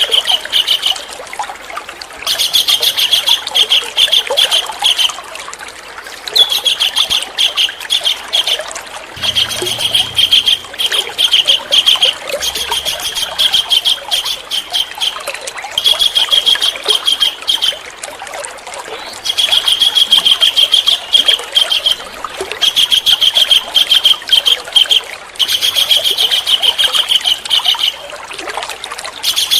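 A songbird giving fast, rattling trills in bursts of about two to three seconds, with short pauses between, repeated about eight times.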